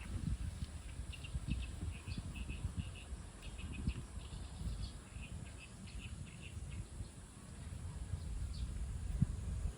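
Small birds chirping in short, high, repeated calls, over a steady low rumble.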